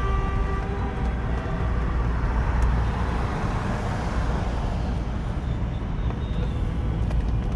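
Steady rumble of car engines and road noise from traffic moving in a convoy.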